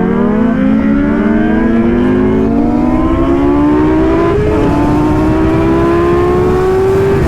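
A multi-cylinder engine accelerating, its pitch climbing steadily, with one upshift about four and a half seconds in, after which it climbs again.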